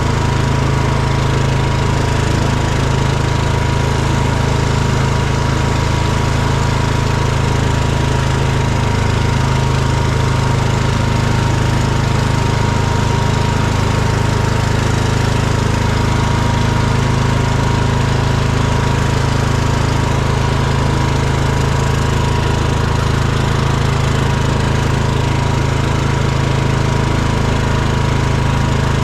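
An engine running steadily at a constant speed, loud and unchanging, with a low hum and a thin steady whine.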